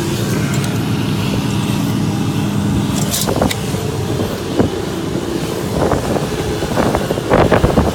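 A vehicle engine running steadily, with a few short clicks in the middle and irregular buffeting near the end.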